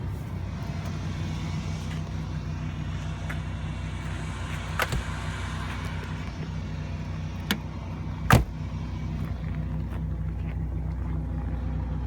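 1991 Buick Park Avenue's 3.8-litre V6 idling steadily after a cold start, with three short sharp knocks, the loudest about eight seconds in.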